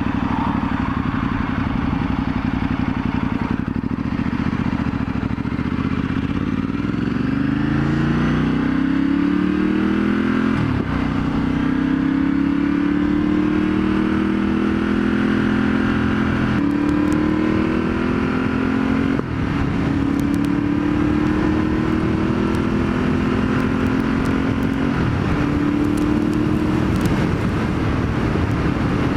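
2015 Ducati Multistrada 1200S L-twin with a full Termignoni exhaust accelerating hard through the gears. The note climbs, then drops at an upshift about 10, 16, 19 and 25 seconds in, and climbs again after each.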